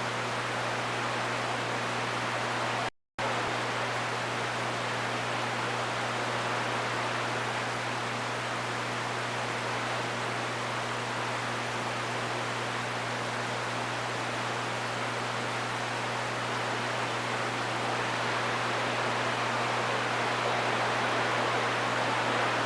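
CB radio receiver hissing with open-channel static between transmissions, over a steady low hum. The audio cuts out completely for a moment about three seconds in.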